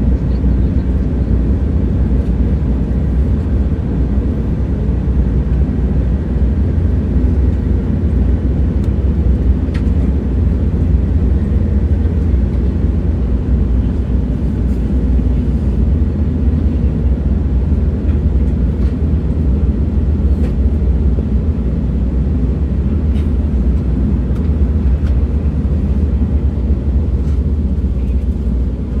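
A train running steadily along the track: a continuous low rumble with faint scattered clicks.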